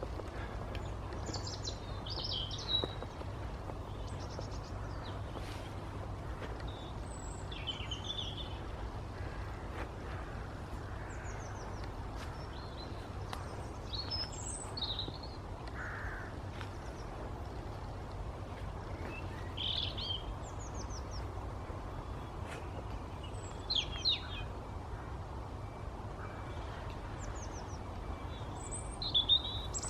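Small woodland birds calling, with short high chirps and quick falling trills scattered through, over a steady low outdoor rumble.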